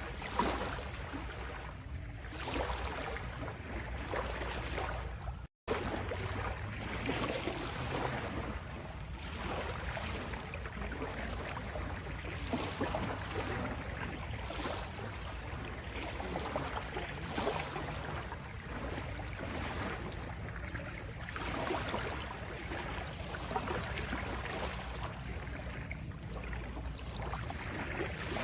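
Small sea waves lapping and washing on the shore in gentle, continuous swells. The sound cuts out completely for a moment about five and a half seconds in.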